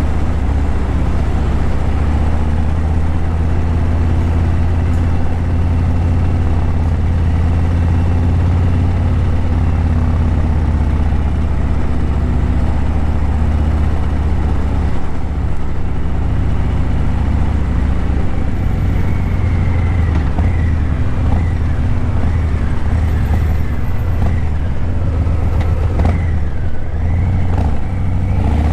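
Harley-Davidson Breakout 117's Milwaukee-Eight 117 V-twin running through Vance & Hines Eliminator 300 slip-on mufflers, a steady deep exhaust rumble while riding at low, even speed in traffic. In the last third the engine note becomes uneven as the throttle changes, with faint gliding higher tones over it.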